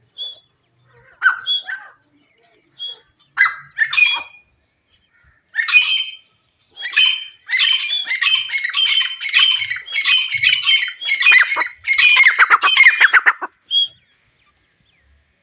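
Iranian teetar (partridge) calling: a few short separate notes, then from about six seconds in a long, fast run of harsh repeated calls that stops shortly before the end.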